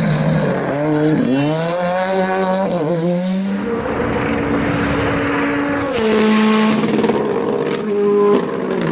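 Ford Fiesta R5 rally car's turbocharged four-cylinder engine revving hard: its pitch climbs steeply about a second in, then holds and steps through gear changes around the middle and again near the end.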